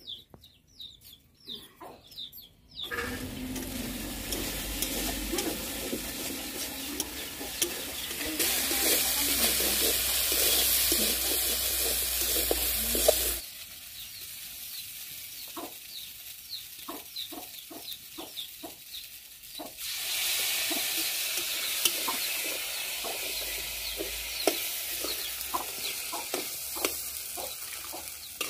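Chopped kochu (taro stems) frying in a metal wok, with a steady sizzle that starts about three seconds in. A metal spatula scrapes and clacks against the pan as it is stirred. The sizzle drops off abruptly about halfway, leaving mostly the scraping strokes, and comes back louder later on.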